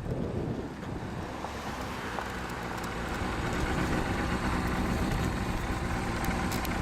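Kawasaki Balius 250cc inline-four motorcycle running on the move, its exhaust coming through an aftermarket Wr's muffler with the baffle fitted, with wind buffeting the microphone. The engine sound grows a little louder about three seconds in.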